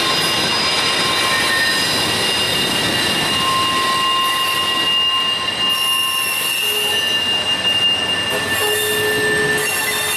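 Train rolling past with its steel wheels squealing against the rails: several steady high-pitched squeals over a continuous rolling rumble, the squeal tones shifting from one pitch to another.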